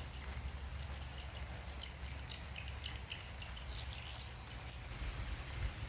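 Rainy outdoor ambience: light rain falling, with small birds chirping intermittently over a low steady rumble.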